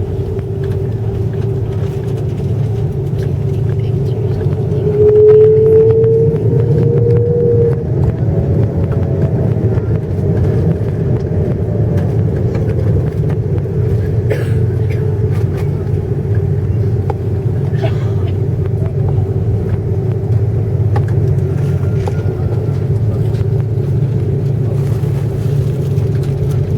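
Airbus A330-300 airliner heard from inside the cabin: a steady loud engine drone and low rumble with a held tone, and a brief rising tone about five seconds in.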